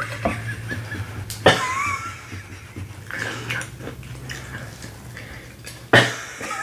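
Close-miked eating of corn on the cob and seafood: wet chewing and biting mouth sounds, with a short, high, gliding vocal squeak about a second and a half in and a sudden loud burst near the end.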